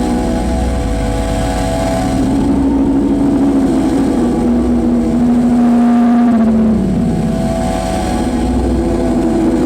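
Live noise music: a loud, dense wall of distorted noise over a low rumble, with sustained droning tones that slowly bend down and then back up in pitch, loudest about six seconds in.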